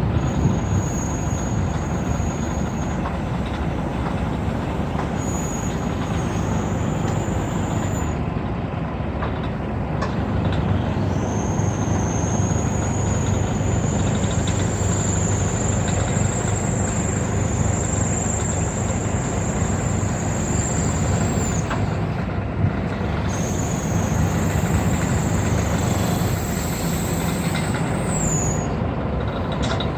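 Scania R 480 truck's diesel engine running steadily, with a thin high whine over it that starts and stops several times and rises slowly in pitch, sliding up sharply near the end.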